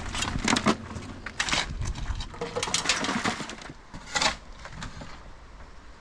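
A shovel scraping into and tipping loose road-repair material, a handful of irregular crunching scrapes.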